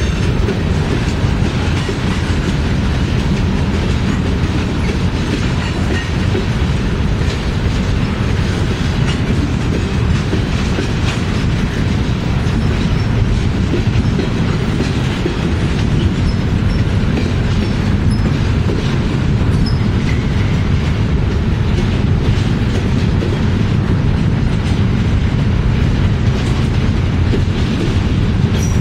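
Norfolk Southern mixed freight cars rolling past: a steady rumble of steel wheels on rail, with clickety-clack as the wheels cross rail joints.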